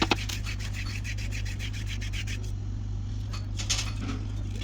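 Quick, rhythmic hand scraping strokes, about six a second, as when a part is rubbed, brushed or filed by hand, over a steady low hum. The strokes stop about two and a half seconds in, and a sharp knock follows near the end.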